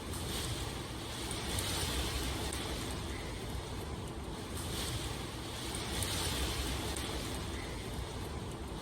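Steady rain ambience: a continuous hiss of falling rain over a low rumble, swelling and easing every couple of seconds as if in gusts of wind.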